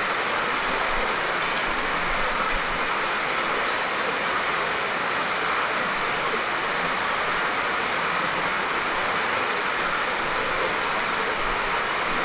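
Steady light rain falling: an even hiss that holds without breaks.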